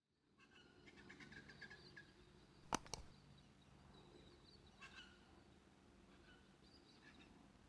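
Faint outdoor ambience with small birds chirping in short runs. Two sharp clicks come close together about three seconds in.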